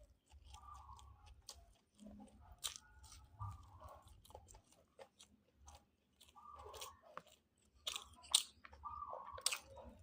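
A person chewing and biting food close to the microphone, with many sharp crunchy clicks scattered irregularly and louder ones near the end.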